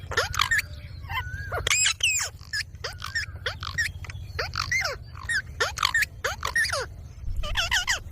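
Indian ringneck parrot calling again and again: short, sharp squawks and whistles that sweep up and down in pitch, over a steady low hum.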